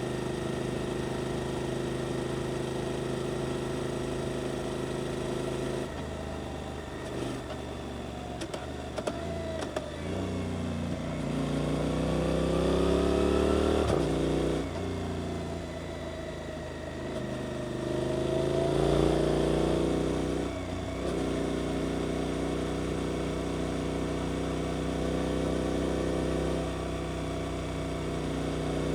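Suzuki GSX-8S 776 cc parallel-twin engine through an Arrows aftermarket exhaust, running steadily, then pulling up in pitch twice as the rider accelerates, each run cutting off sharply, before settling back to a steady note.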